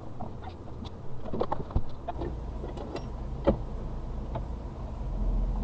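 Suzuki Carry kei truck's 660cc engine running at low revs, heard from inside the cab, with small rattles and ticks. Two sharp knocks come about two and three and a half seconds in. The low engine note grows a little louder near the end.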